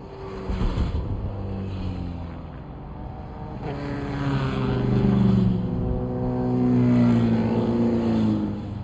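Several sport bike engines revving and riding by, their pitch rising and falling as they pass, loudest about five and seven seconds in.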